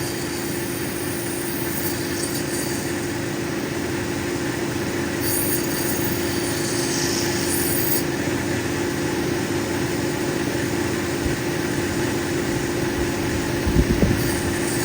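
Cabbing machine motor and wheels running with a steady hum, grinding down one side of a black opal; a brighter hiss comes in about five seconds in for a few seconds, and a few low knocks sound near the end.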